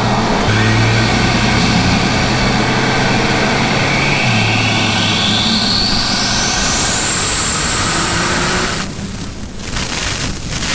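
Turbocharged Ford Falcon Barra inline-six running with a steady engine note under a high turbo whine. The whine climbs steadily in pitch over about seven seconds, holds high, then cuts off near the end.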